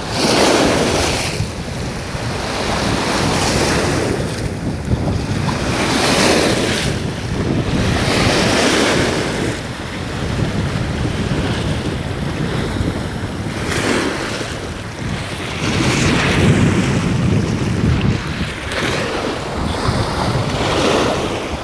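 Sea waves washing in, swelling and fading every two to three seconds, with wind buffeting the microphone.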